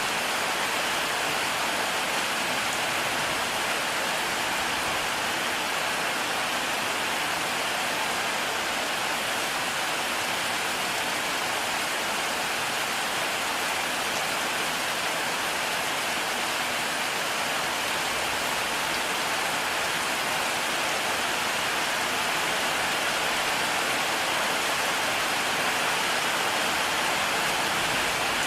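Heavy rain falling steadily: a dense, even hiss with no break or change in level.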